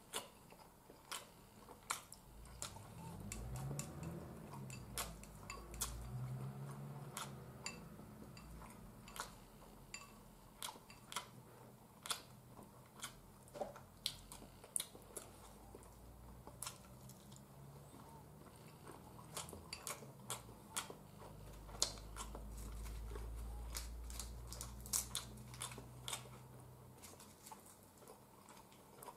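Quiet chewing of rice and sardines, with many small sharp clicks scattered throughout and two longer stretches of a low hum.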